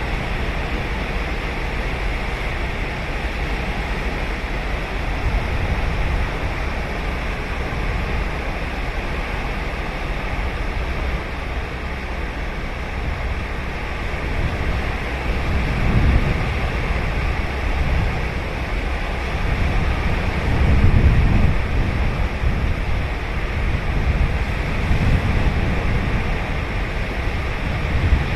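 Ocean surf on a sandy beach on Sagami Bay: a continuous wash of waves, with heavier breakers swelling about halfway through and again several times in the last third.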